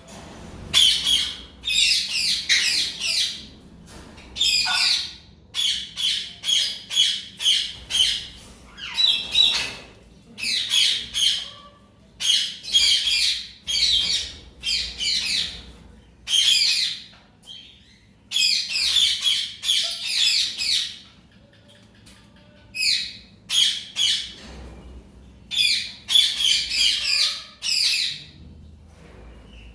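Pet parrots giving harsh squawks and shrill calls in repeated bursts, with short pauses between clusters.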